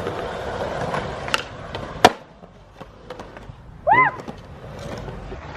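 Small wheels rolling on concrete, then a sharp clack and a loud hard impact about two seconds in as the rider hits an unwaxed ledge. A short squeak follows a couple of seconds later.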